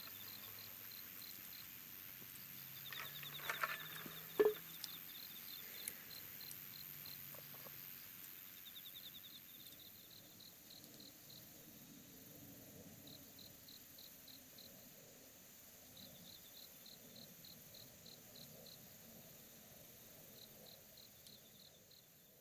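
Crickets chirping in repeated trains of quick, even pulses, faint, with a few sharp clicks a few seconds in; the sound fades down near the end.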